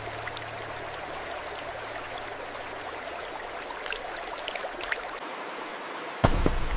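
Water running steadily like a small stream, with a few faint ticks scattered through the middle. Near the end a sudden loud low thump or rumble cuts in.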